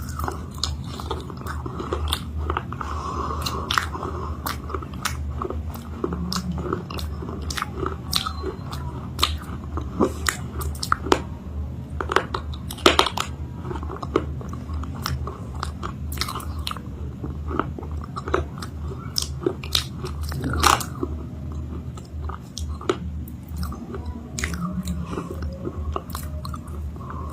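Close-miked biting and chewing of a crunchy chalk-paste 'cake', with frequent sharp crunches and two especially loud ones about halfway through and about three quarters of the way in. A steady low hum runs underneath.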